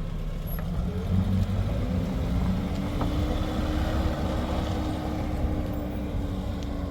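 A motor vehicle's engine running steadily with a low rumble; its pitch rises slightly and eases off again midway.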